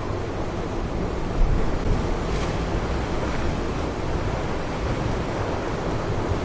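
Atlantic surf washing against the shore with wind buffeting the microphone: a steady rushing noise, heavy in the low end, with a stronger gust about a second and a half in.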